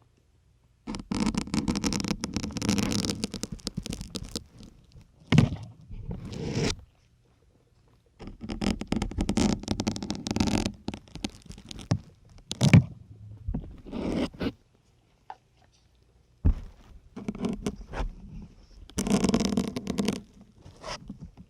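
Syringes being pushed one after another into a dense grey sponge, each push a crackling, scraping squeeze. Some pushes run on for a couple of seconds, others are short single stabs, with brief gaps between them.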